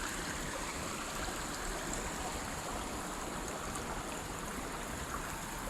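A mountain creek flowing, a steady, even wash of water noise.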